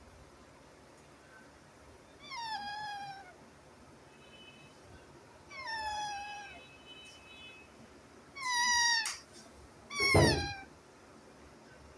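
Four separate high, falling cries from a young animal, each about half a second to a second long, the last one the loudest.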